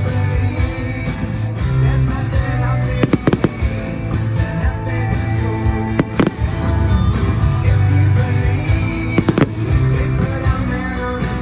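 Firework bangs over loud music: a few sharp cracks about three seconds in, another about six seconds in, and a pair about nine seconds in.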